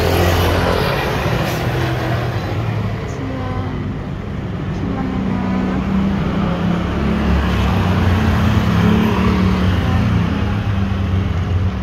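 Road traffic: motor vehicle engines running close by with a steady low hum, louder near the start and again in the second half.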